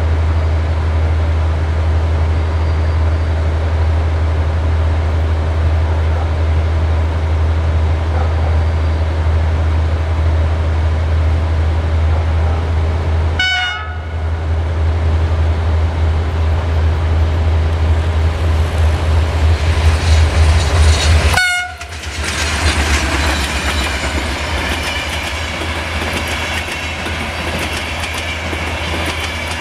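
Diesel locomotives hauling passenger trains. For the first part, a loud, steady low drone as a locomotive approaches, with short horn notes near the two cuts. In the last third, a train passes close by, its wheels clattering over the rail joints.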